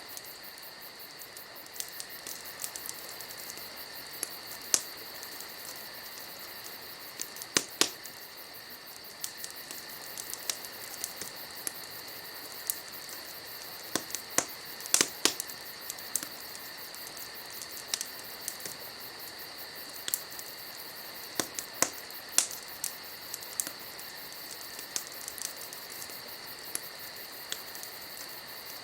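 Wood campfire crackling, with irregular sharp pops and snaps, over a steady high chorus of night insects.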